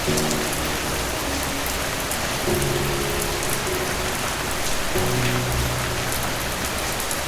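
Steady rain falling, with soft sustained low chords underneath that change about every two and a half seconds.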